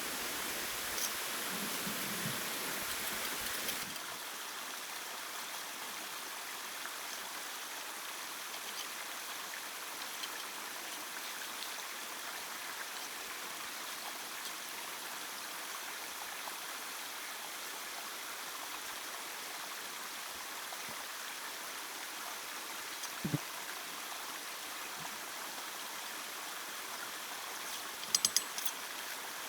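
Steady rush of flowing stream water, a little louder for the first four seconds. A single sharp knock comes about 23 seconds in, and a quick run of clicks comes near the end.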